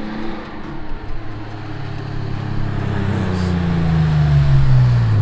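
Car engine running on the move. Its pitch drops steadily over the last two seconds while it grows louder.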